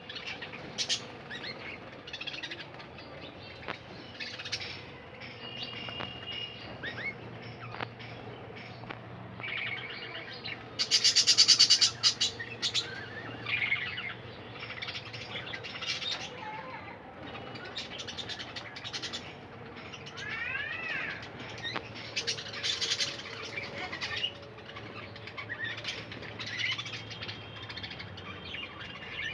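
Budgerigars chirping and chattering in many short calls, with a louder burst of harsh calls about eleven seconds in.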